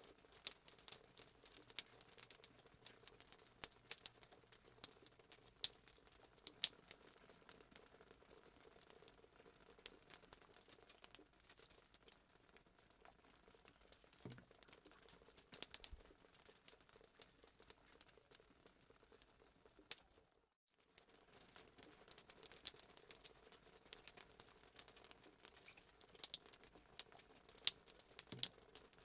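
Fireplace sound effect: a wood fire crackling faintly with many irregular small pops and snaps over a light hiss. It cuts out completely for a moment about twenty seconds in, then resumes.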